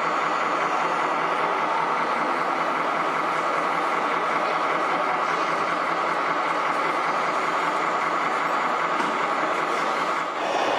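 Scale RC truck's sound module playing a steady engine drone through its small speaker, with a brief dip near the end.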